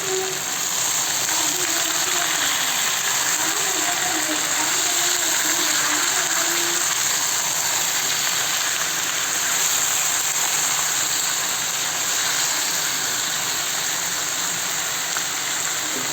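Chicken, potatoes and onions frying in hot oil in a pan, giving a steady sizzle.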